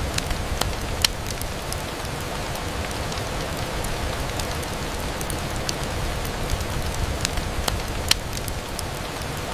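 Steady rain falling, with a low rumble underneath and scattered sharp clicks, the clearest about a second in and near eight seconds.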